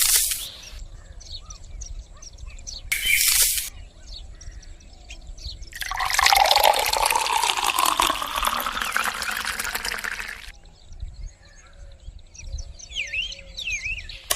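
Liquid pouring for about four seconds, in the middle of the stretch. Before it come two short hissing bursts, and small birds chirp faintly in the background.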